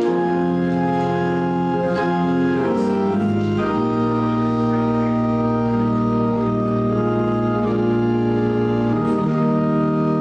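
Church organ playing a hymn in long held chords that change every few seconds.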